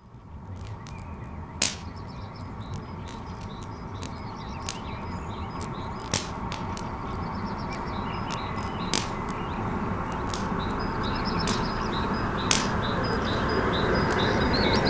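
Crackling log fire with sparse sharp pops and birds chirping in short repeated notes, thickest in the second half, over a low rumble that grows steadily louder.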